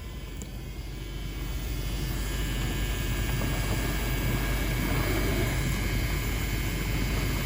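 LG dishwasher circulation pump running with a loud, steady drone that grows louder over the first couple of seconds and then holds. The noise comes from a worn pump motor bearing.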